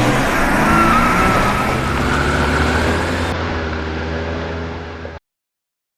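Car engine running and pulling away, rising in pitch at first and then holding a steady drone; the sound cuts off abruptly about five seconds in.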